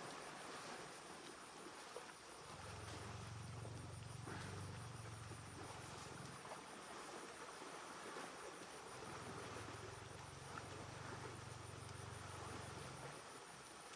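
A steady high insect trill, with two low rumbles of about four seconds each, the first starting about two and a half seconds in and the second about nine seconds in.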